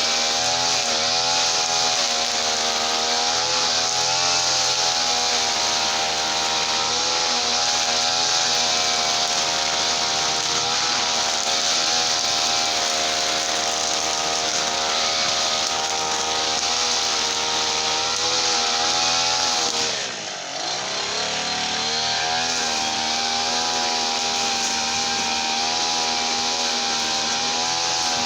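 Gasoline brush cutter's small two-stroke engine running at high revs, its pitch wavering up and down; about twenty seconds in the revs drop briefly, then climb back up and hold.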